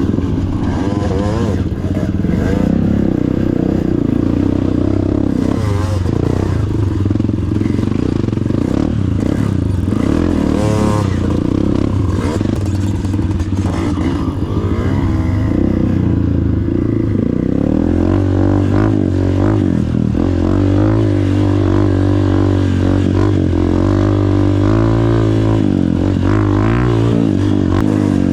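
Two-stroke dirt bike engine ridden hard, its revs rising and falling again and again.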